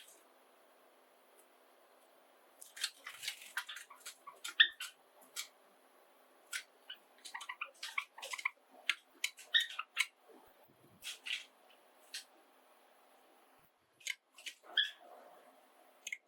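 Java sparrows calling and singing: a busy run of short, sharp chirps and clicking notes, with a brief pause before a few more near the end.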